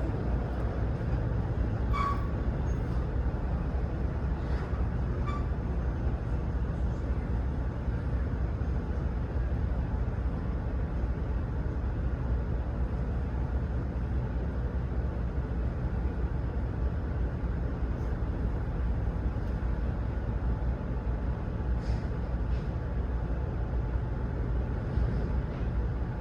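Steady low rumble of an idling truck engine, with a few faint clicks.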